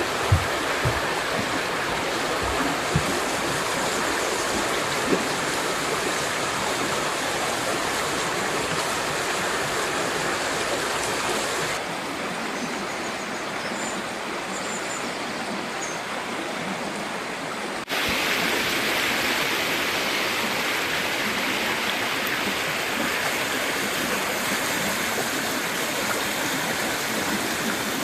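River water rushing steadily. The sound drops abruptly a little softer about 12 seconds in, then jumps back louder about 18 seconds in.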